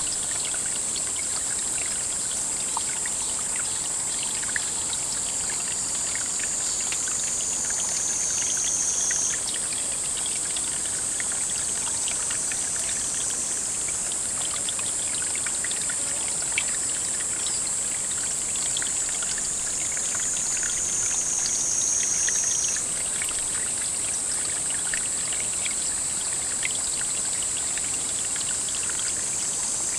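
Pond water trickling and flowing steadily, with small scattered clicks and a continuous high-pitched insect drone over it. Twice the drone sinks lower in pitch, grows a little louder and then snaps back.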